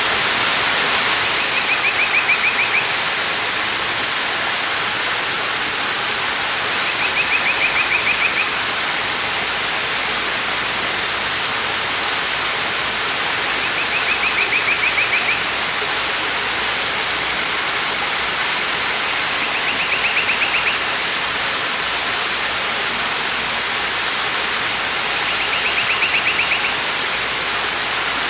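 Waterfall rushing, a steady, even roar of falling water. Over it, a short high trill about a second long repeats five times, about every six seconds.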